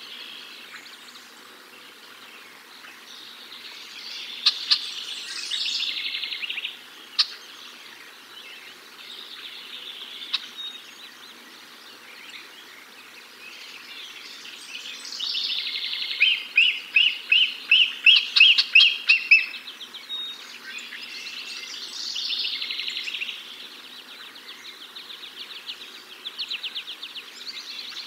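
Wild birds calling and singing in the woods, in short bursts of chirps and trills. The loudest is a run of about a dozen quick, evenly repeated chirps in the middle.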